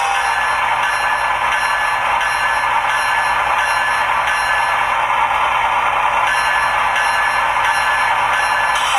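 Sound decoder of an HO-scale GE ET44AC Tier 4 GEVO model locomotive playing its diesel prime-mover sound through a small, thin-sounding speaker, with a high ringing, likely the locomotive bell, repeating about three times a second.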